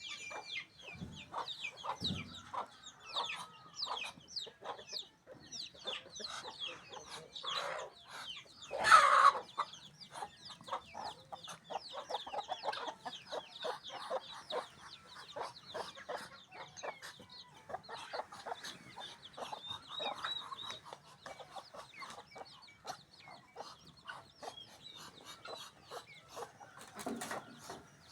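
A flock of chickens clucking and chirping together in quick, overlapping calls, with one louder, longer call about nine seconds in.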